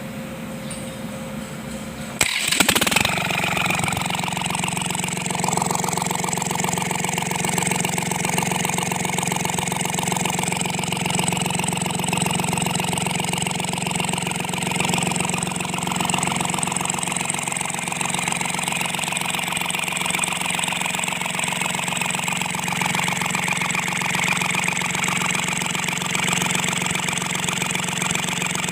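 Kubota D1462 three-cylinder diesel engine of a Sunshine L1-255 tractor catching with a loud burst about two seconds in, then running steadily at idle. The engine is freshly overhauled with new valve seats and piston rings to cure its knocking noise.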